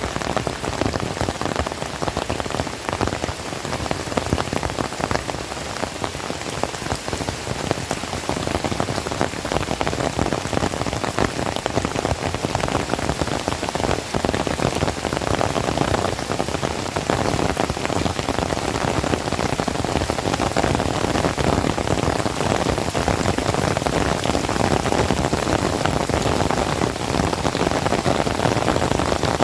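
Heavy rain pattering steadily on surfaces, growing a little louder in the second half.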